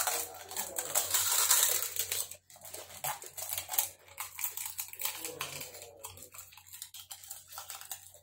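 Crisp panipuri (gupchup) shells cracking and crunching as they are bitten and chewed, dense for the first two seconds or so, then lighter scattered crunches.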